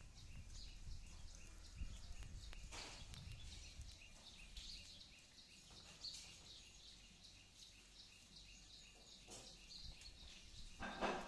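Small birds chirping faintly: a steady run of short, high chirps, several a second.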